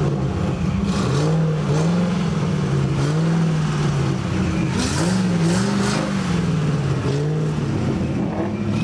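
A car engine being revved over and over in short blips, its pitch climbing and dropping again every second or two over a steady running engine.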